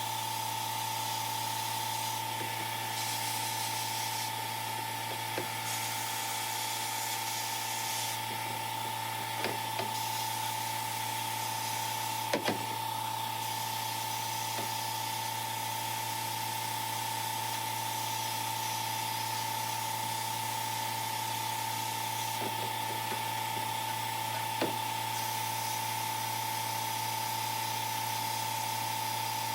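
Small power tool running at a steady speed, with a few brief clicks and knocks, the loudest about twelve seconds in.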